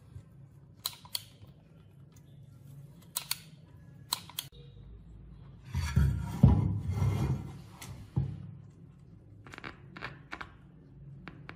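Scattered sharp clicks and small knocks from handling tools or parts. A louder, noisier stretch of about a second and a half comes about six seconds in.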